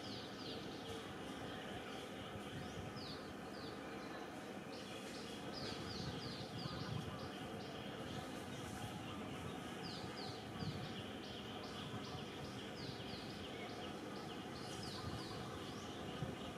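A bird calling over a steady background hiss, giving runs of short, high, downward-slurred chirps several times a second, again and again.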